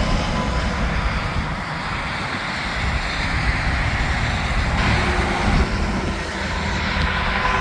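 Interstate highway traffic, with semi trucks and cars passing at speed: a steady rush of tyre and engine noise.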